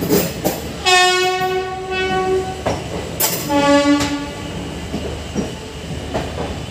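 Passenger coaches rolling slowly past with sharp wheel clacks over the rail joints. Two train horn blasts sound over it: a longer, higher blast about a second in, then a shorter, lower one near the middle.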